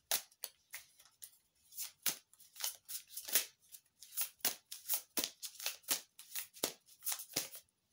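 Tarot cards being shuffled and handled by hand: a run of irregular short card slaps and flicks, a few a second.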